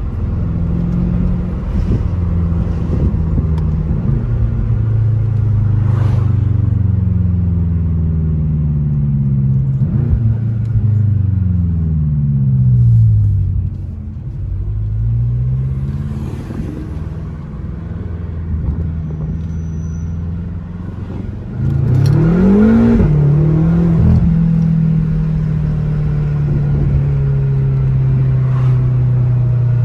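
BMW F10 M5's twin-turbo V8 with the mufflers deleted, under way. The engine note falls as the car slows about ten seconds in, then picks back up. It climbs sharply in a short burst of acceleration just after twenty seconds, then settles into a steady cruise.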